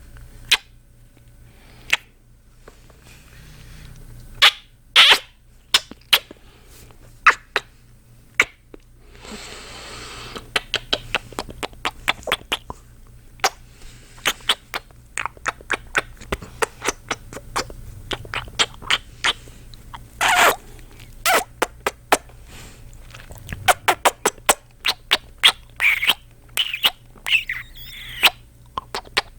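Close-miked kissing and lip-smacking sounds from a man's mouth: an irregular run of short, wet smacks, some much louder than others, with a brief rush of noise about nine seconds in.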